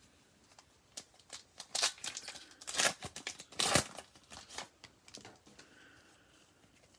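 Plastic foil trading-card pack wrapper being torn open and crinkled, in a run of crackling bursts from about a second in until about five seconds in.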